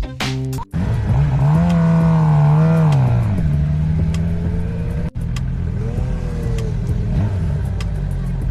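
Motorcycle engine running under load, its pitch rising and holding for about two seconds before dropping back. After an abrupt cut it runs steadily again, with a brief rev.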